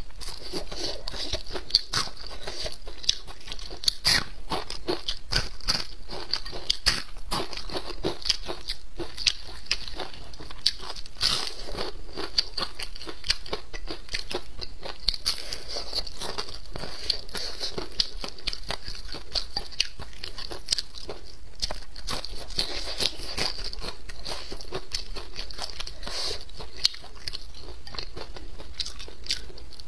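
Close-miked biting and chewing of deep-fried yellow croaker: a steady run of sharp, crisp crunches as the fried crust and fish are eaten.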